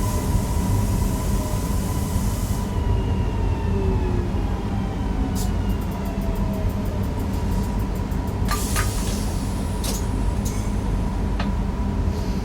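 Newag Impuls EN63 electric multiple unit running on the line, heard from the driver's cab: a steady rumble with a steady whine and several whines gliding slowly down in pitch. A high hiss stops about three seconds in, and a few short clicks come in the second half.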